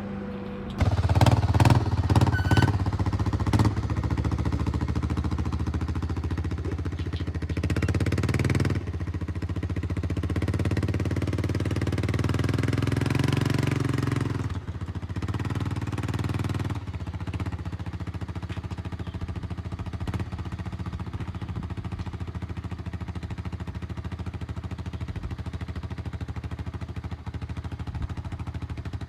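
1992 Honda FourTrax 300 ATV's single-cylinder four-stroke engine revving under load as it is driven up loading ramps into a pickup bed, with a few clunks in the first seconds. The revs surge unevenly, then drop to a steady idle about 17 seconds in.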